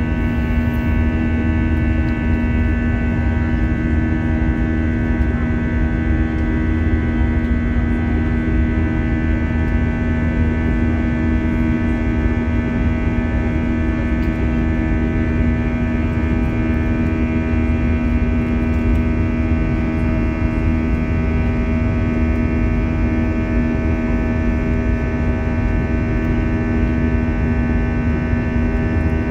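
Steady engine drone and air rush inside the cabin of an Airbus A321 with IAE V2533-A5 turbofans, with a constant low hum tone over a deep rumble.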